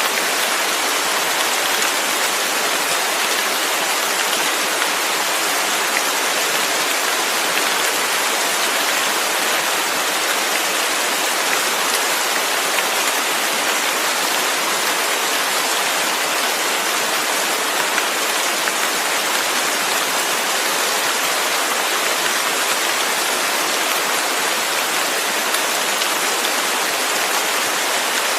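Steady, even rain noise: a dense hiss of heavy rainfall.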